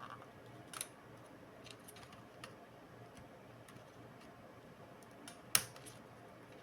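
Scattered small sharp clicks and taps of laptop parts and tools being handled during disassembly, the loudest about five and a half seconds in, over a low steady hum.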